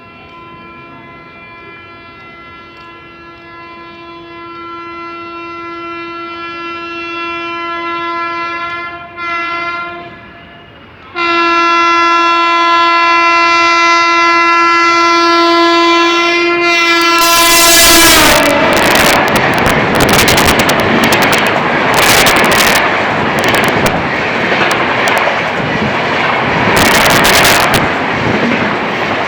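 Horn of a WAP-7 electric locomotive sounding long blasts as it approaches at over 115 km/h, growing steadily louder with a brief break near the middle. About 17 seconds in, the horn's pitch drops as the locomotive passes. Then the superfast express's coaches rush past with a loud rumble and a rapid clatter of wheels over rail joints.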